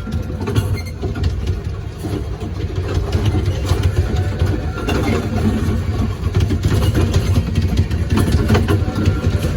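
Small mall ride-on train running, a steady low rumble with scattered rattles and clicks from the moving cars.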